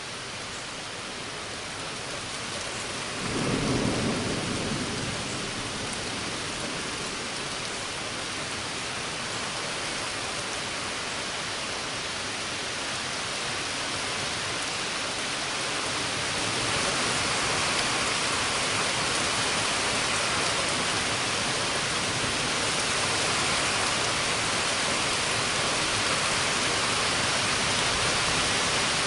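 Steady rain from a thunderstorm, with a roll of thunder rumbling about three seconds in. The rain grows louder about halfway through.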